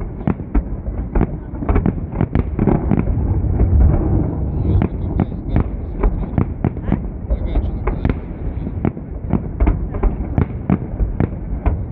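Fireworks salute: a rapid, irregular series of sharp bangs and crackles, several a second, over a continuous low rumble.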